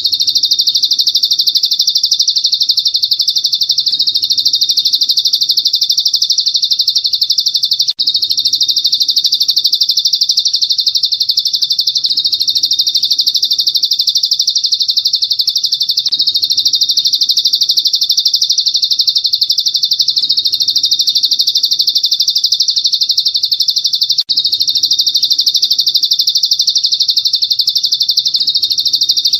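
Recorded songbird masteran: a continuous, very rapid high-pitched trill of chirps, looped in a pattern that repeats about every four seconds, with a brief break twice. It is played as a training recording for caged songbirds to learn.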